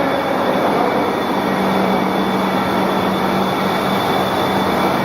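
Steady mechanical noise of a running egg boiling and peeling production line, with a low hum and a faint high whine over a dense clatter of machinery.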